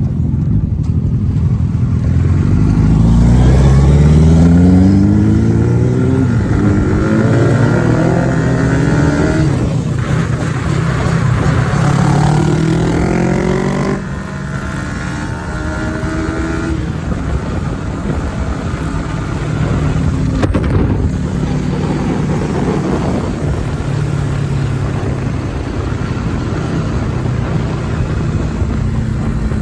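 Kawasaki ZX-10R sport bike's inline-four on its stock exhaust, accelerating hard with the engine note rising several times through the first half, then dropping and running at a steadier pitch with small rises and falls.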